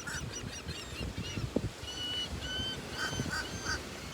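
Birds calling in short, clear, repeated notes, a few a second, in one run right at the start and another from about two seconds in.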